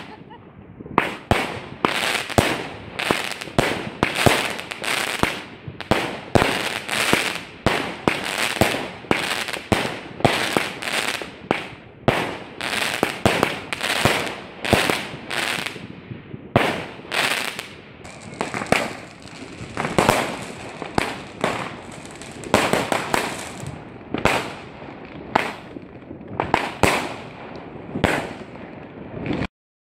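Aerial fireworks going off in a rapid series of bangs, about two a second, each ringing out briefly, stopping abruptly near the end.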